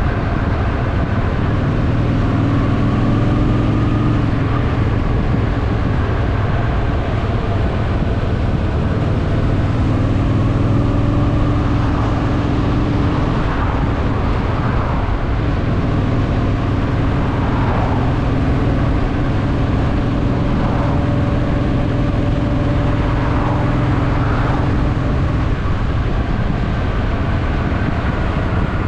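Honda Shadow VT750's V-twin engine running steadily while riding, its pitch rising and falling a little with the throttle, over a constant rush of wind and road noise.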